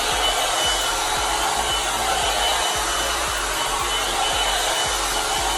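A 2-in-1 hot-air hair dryer and volumizer brush running steadily on its high heat setting: a constant rush of air with a faint high whine.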